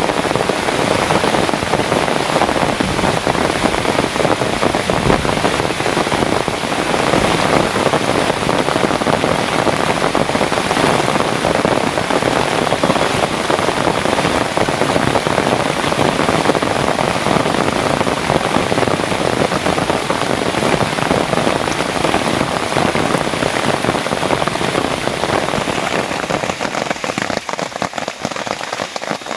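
Heavy rain falling steadily in a dense, even hiss, a little quieter near the end.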